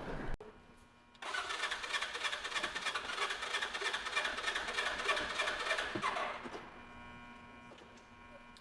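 An engine being started: about five seconds of dense mechanical cranking noise that begins abruptly and then fades to a faint steady hum.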